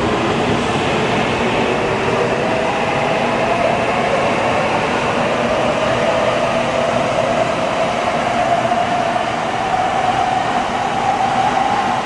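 Shinkansen train running with a steady rail rumble and a motor whine that rises slowly in pitch as it gathers speed.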